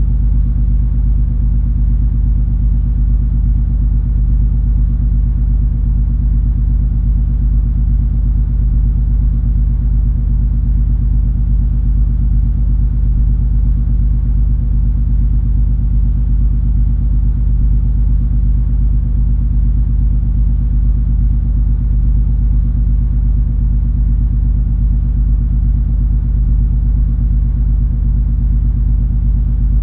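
Steady deep rumble of the cruise ferry MS Color Fantasy under way, its engines droning with several steady low hum tones and no change in pace.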